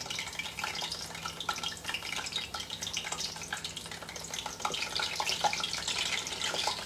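Aubergine slices frying in hot oil that has just reached frying temperature in a stainless steel pan: a steady sizzle full of quick crackling pops, growing louder from about halfway through as more slices go in.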